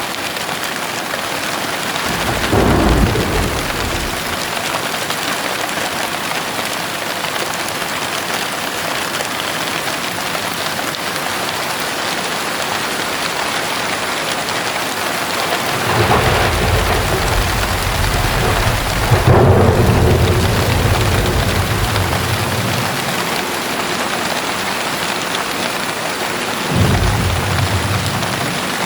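Steady heavy rain with thunder rumbling three times: a short roll a few seconds in, a long rumble from about halfway through that swells and slowly fades, and another short roll near the end.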